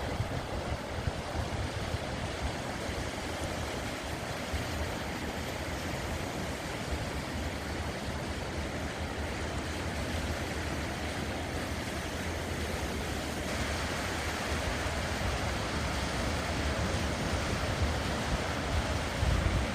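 Sea waves washing onto a sandy beach: a steady hiss of surf, growing louder about two-thirds of the way through, with wind rumbling on the microphone.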